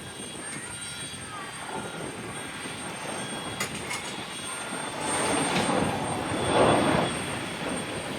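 Jet aircraft noise on an airport apron: a steady rush that swells about five seconds in, peaks near seven seconds, then eases.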